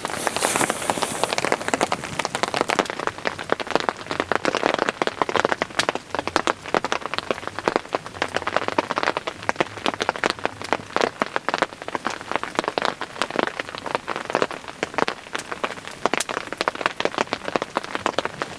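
Heavy rain falling: a dense, irregular patter of individual drops striking a surface close by.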